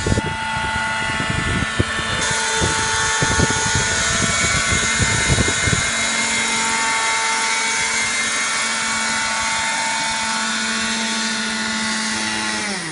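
Robinson helicopter running steadily with a high whine, with gusty low buffeting during the first few seconds. Just before the end, the pitch drops sharply as it winds down. It is running smoothly, which the owner calls running perfectly.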